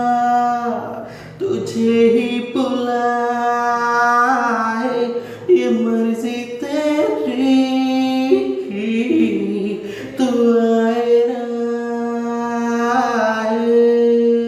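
A boy singing unaccompanied, holding long drawn-out notes with small slides between pitches rather than clear words.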